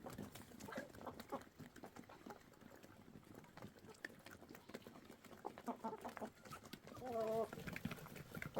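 Farmyard animal calls, chiefly poultry, among faint scattered clicks and knocks, with one louder wavering call about seven seconds in.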